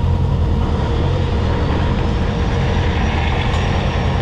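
A car engine running steadily, a low even rumble.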